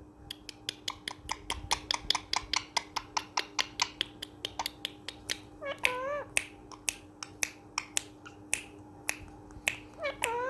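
Parrot making rapid kissing, smacking clicks, about six a second at first and then slowing, with a short warbling call about six seconds in and again near the end.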